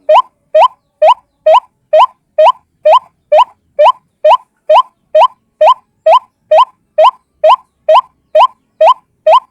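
White-breasted waterhen call, a lure recording: one short upward-sweeping note repeated evenly, a little over two times a second.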